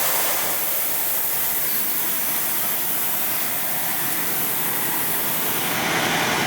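Steady hiss of compressed air escaping from a semi truck's air system. Pressure will not build past 105 psi and then bleeds down on its own; something underneath is busted or leaking.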